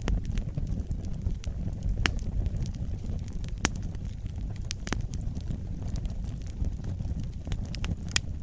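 Fire burning in a fireplace: a steady low rumble of flames with scattered sharp crackles and pops, the loudest pops about a third of the way in and near the end.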